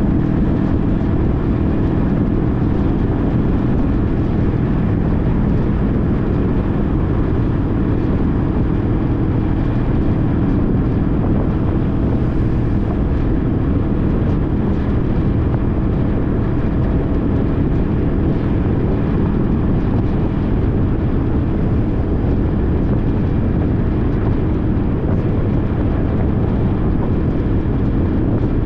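A 2014 Honda CTX1300's V4 engine running steadily while the motorcycle is ridden, mixed with wind and road noise.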